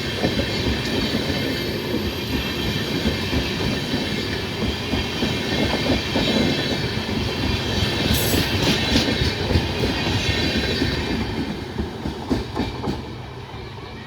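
Sealdah–Balurghat Express passenger train rolling along, its wheels clattering over the rail joints, with sharp clicks about two-thirds of the way in. The sound dies down near the end as the train moves off.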